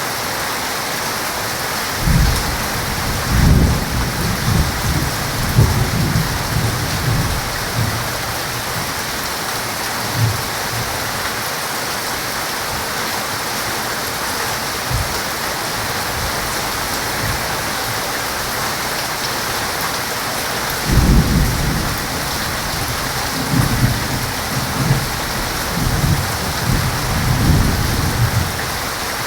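Steady heavy rain hissing throughout, with thunder rumbling twice: a rolling peal starting about two seconds in and lasting several seconds, and another from about two-thirds of the way through to near the end.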